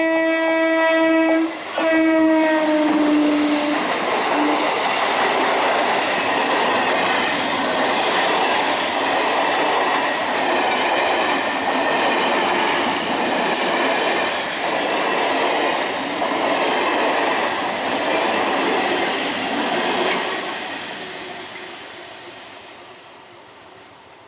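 Electric multiple unit (EMU) local train sounding its horn in a long blast that breaks briefly and drops in pitch as the train reaches the crossing, then the running noise of its carriages passing for about sixteen seconds, fading away near the end.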